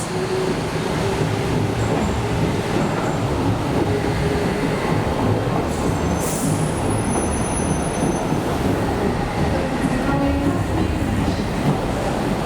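Docklands Light Railway train running on its track with a steady rumble, and a brief high-pitched wheel squeal about six seconds in.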